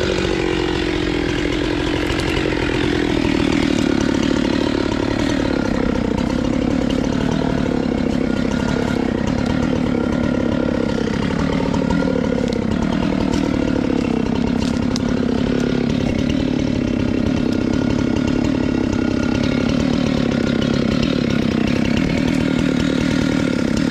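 Husqvarna 390XP two-stroke chainsaw with a 3-foot bar running at high revs deep in a cut through a thick willow trunk. The engine pitch drops over the first few seconds as it loads, then holds steady. The saw is labouring, which the owner suspects comes from wet willow chips not clearing from the centre of the cut.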